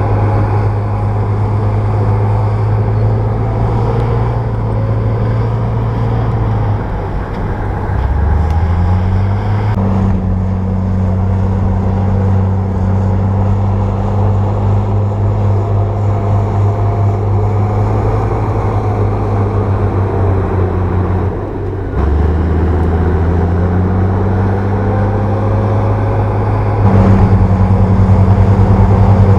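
Komatsu bulldozer's diesel engine running under way, with a steady low hum. Its revs dip and climb back twice, and it gets louder near the end.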